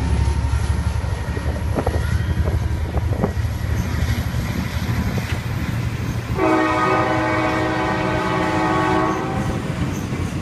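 Passenger cars of a diesel passenger train rolling past with a steady low rumble and a few clicks of wheels over rail joints. About six seconds in, the train's horn sounds one steady blast lasting about three seconds.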